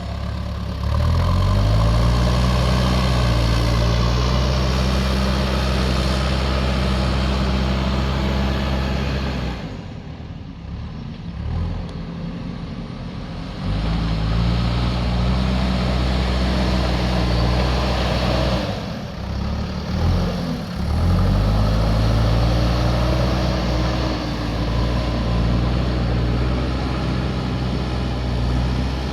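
JCB backhoe loader's diesel engine running hard at high revs, easing off twice, once for about four seconds and once briefly, then revving back up each time.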